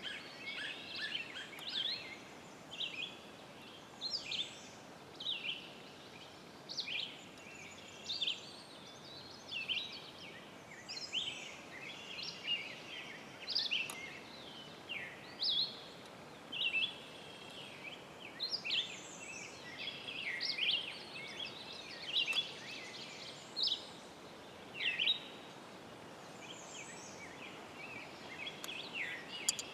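Songbirds chirping and singing, many short high calls and trills following one another every second or so, over a faint steady background hiss.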